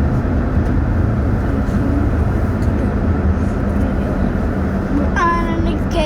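Car driving along a road, a steady low engine and road rumble. About five seconds in, a voice comes in, holding a pitched note.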